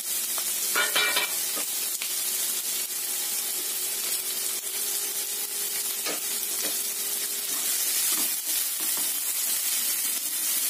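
Diced onion and garlic sizzling in hot oil in a nonstick frying pan, a steady hiss with a few light taps. Near the end a plastic slotted spatula stirs and scrapes them around the pan.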